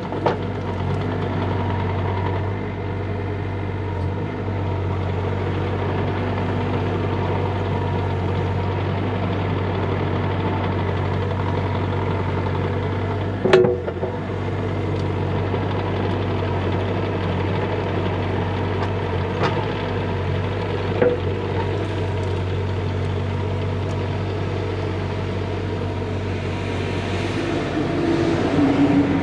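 Bobcat E35 mini excavator's diesel engine running steadily with a low hum. A sharp clunk comes about 13 seconds in, and a lighter knock about 21 seconds in.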